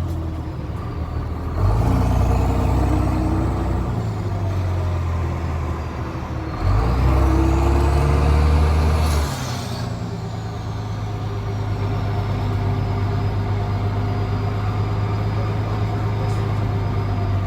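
Straight-piped Cummins C8.3 six-cylinder turbo diesel in a school bus, pulling hard twice with its pitch climbing, then dropping back to a steady low drone when the throttle eases, about nine seconds in. A thin high whistle rises and falls with the load.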